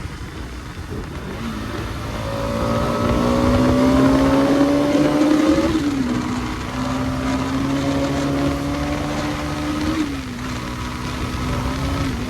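Bajaj Pulsar NS200 BS6 motorcycle's single-cylinder engine pulling under acceleration, its pitch climbing steadily and dropping sharply at gear changes about six and ten seconds in, with a smaller dip just before the end.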